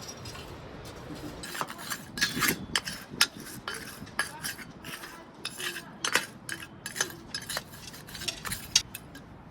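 Irregular clinks and gritty scrapes of hard stone and grit being worked by hand as patio pavers are set and levelled, with the clicks closely spaced from about a second and a half in until near the end.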